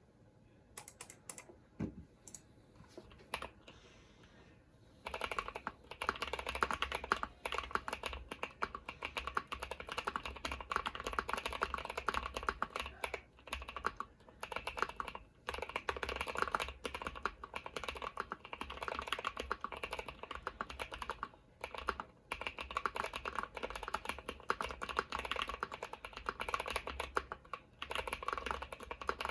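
Deep-sounding mechanical keyboard typing: lubed Gazzew Boba U4T tactile switches on a polycarbonate plate with Cherry-profile keycaps. A few single keystrokes, then fast continuous typing from about five seconds in, with short pauses.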